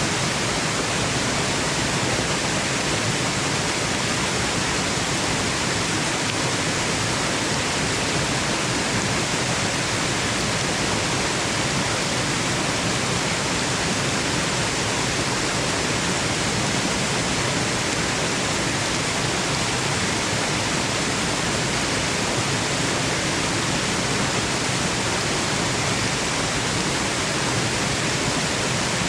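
Waterfall rushing as a steady, unbroken wash of noise, even and unchanging throughout, used as white noise.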